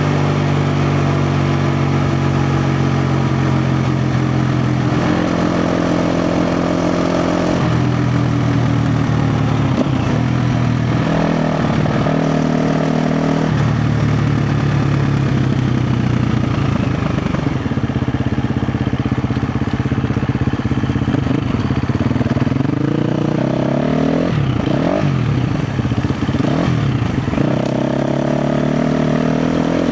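KTM 350 XC-F dirt bike's single-cylinder four-stroke engine running under load off-road. It holds steady revs that step up and down every few seconds, then revs up and down quickly several times about three-quarters of the way through and climbs again near the end.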